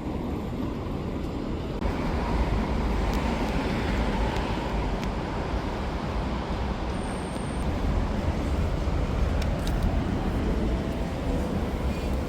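Steady low rumble of a moving vehicle or traffic, with no speech over it.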